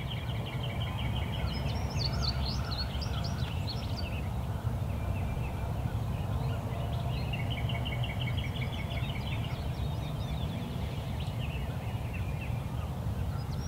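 Birds calling in the woods: a rapid trill repeated twice and scattered high chirps, over a steady low rumble of wind.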